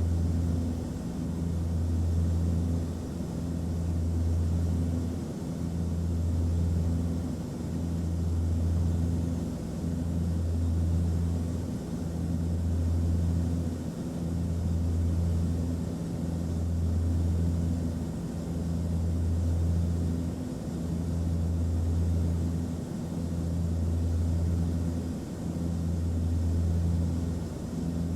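Airplane cabin noise: a steady low drone of engines and airflow, with a deep hum that swells and fades evenly about every two seconds.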